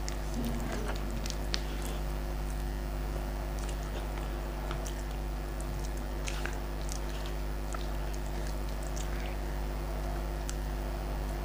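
A person eating rice and fish curry with her fingers: soft chewing with scattered small mouth and finger clicks, over a steady low hum.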